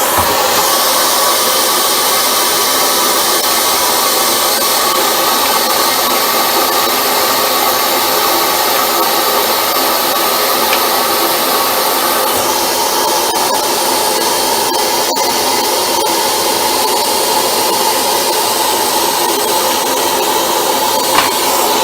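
A steady electric motor with rushing air, running without a break while buildup is being cleared out of a Dyson DC25 cleaner head. There is a brief click near the end.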